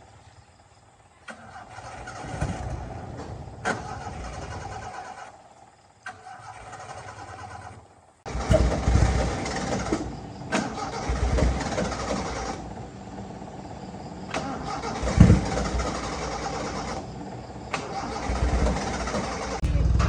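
A restored jeep's engine being cranked over on the starter in repeated tries of a few seconds each, growing louder in the second half.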